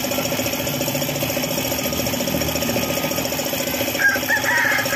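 Suzuki F6A three-cylinder engine running steadily with a fast, even pulse; its knocking is blamed on a failed oil pump. A short higher-pitched sound rises over it about four seconds in.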